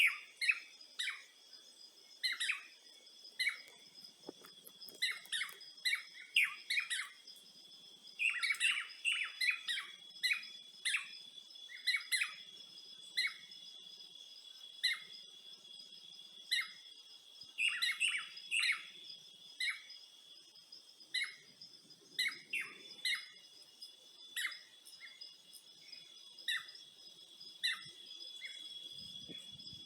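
Birds chirping in many short, repeated calls over a steady high-pitched insect drone.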